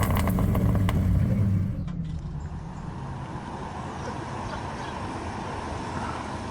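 A car engine running loud, its pitch rising and falling, for about the first two seconds, then cutting off abruptly. Quieter steady outdoor background noise follows.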